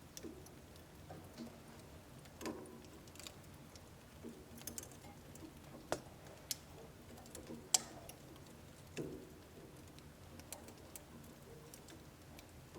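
Wood fire burning in a wood stove: irregular crackles and sharp pops from the burning logs over a soft low hiss of the flames.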